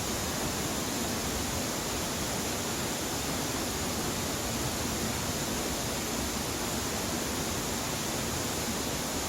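Steady rushing water of a mountain stream, an even hiss with no single splashes standing out.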